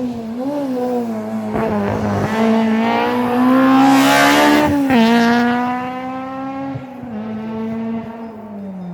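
A historic rally car's engine revving hard as the car passes on a special stage, loudest about four seconds in, with a gear change about a second later; the engine note then climbs again and fades as the car pulls away.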